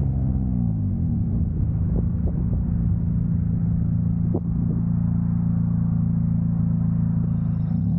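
2000 Honda Civic's D-series four-cylinder engine under way: the revs drop over the first second, hold steady at a low drone, then climb quickly to a higher steady note near the end.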